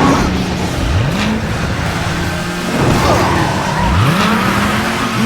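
Cartoon race car engine sound effect, running with two rising revs, one about half a second in and another near four seconds, over background music.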